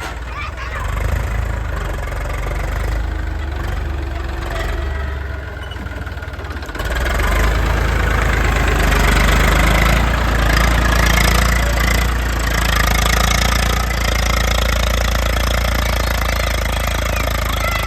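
Diesel engine of heavy machinery running steadily, growing louder and fuller about seven seconds in, as when it is revved or put under load.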